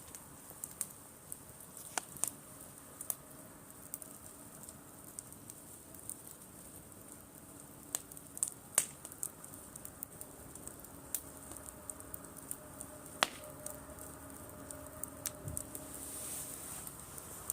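Driftwood bonfire crackling: irregular sharp pops and snaps, a few louder ones, over a steady high hiss that swells slightly near the end.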